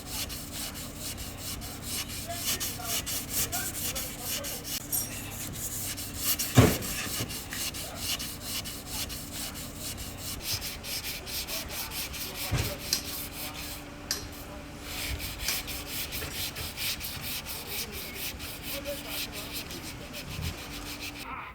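Quick, repeated abrasive scraping strokes, like sanding or filing by hand, over a faint steady hum. One sharp knock about six seconds in.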